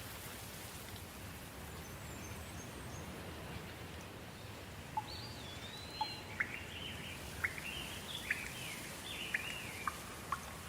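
Soft rain falling steadily, with birds chirping from about five seconds in: short rising and falling calls and a string of sharp single notes.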